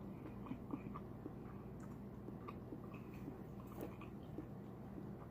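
Close-miked mouth sounds of a person chewing seafood: soft wet smacks and small scattered clicks, over a faint steady low hum.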